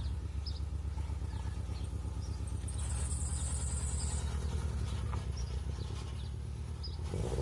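Subaru Impreza's EJ20 flat-four engine idling steadily with a rapid, even pulse, and short faint high chirps scattered over it.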